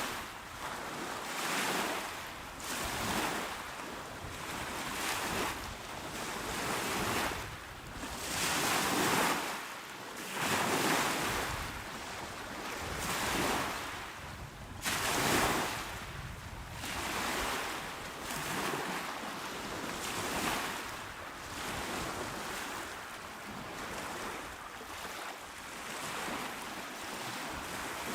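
Small, calm sea waves breaking and washing onto the shore, one soft surge after another every second or two.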